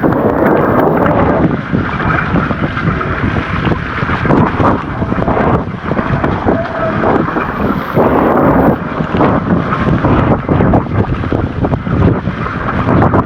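Wind buffeting the microphone over an electric mountain bike being ridden along a rough trail, with many short knocks and rattles as it goes over bumps.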